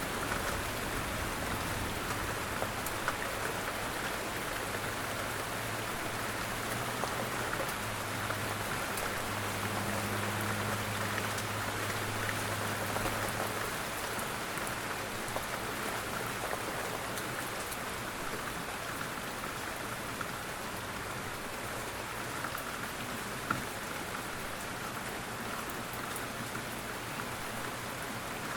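Steady rain falling and pattering on a surface. A low rumble runs underneath and stops about halfway through.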